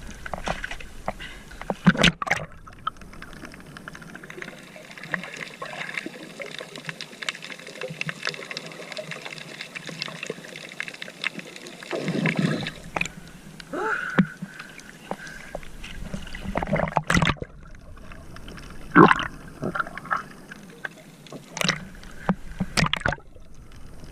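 Water splashing, gurgling and trickling, with scattered sharp knocks and splashes.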